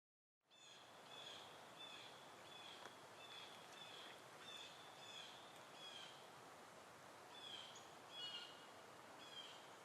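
Faint outdoor ambience: a bird chirping over and over, short falling chirps about one to two a second with a pause near the middle, over a low hiss. It starts after a moment of dead silence.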